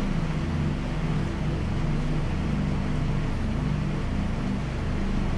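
Steady hiss of heavy rainfall, over a low wavering drone that shifts in pitch every second or so.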